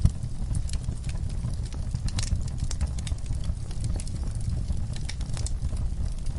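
Wood fire in a fireplace crackling: scattered sharp pops and snaps over a steady low rumble of the flames, with one louder pop right at the start.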